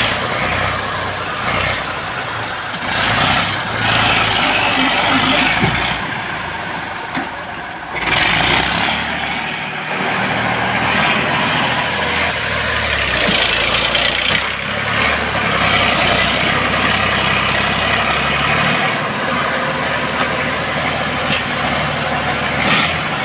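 Tractor diesel engine running loud, its sound swelling and easing off several times as the load or revs change.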